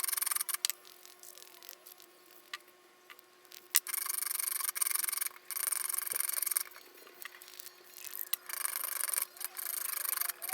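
Three bursts of harsh, hissing rasp from metalworking on an aluminium engine casting, the second and longest lasting almost three seconds. They are separated by quieter gaps with a few sharp clicks, over a faint steady hum.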